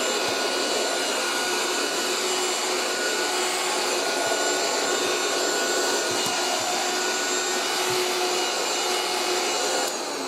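1980s Moulinex 237/320 handheld vacuum cleaner running steadily: a motor whine with several held tones over the rush of air, sounding like an electric whisk. It dies away near the end.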